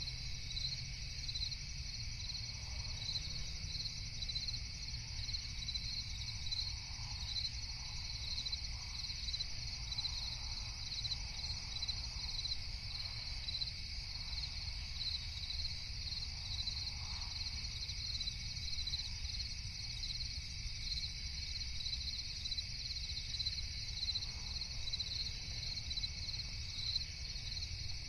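Night insect chorus of crickets chirping in steady, regular pulses over a low rumble.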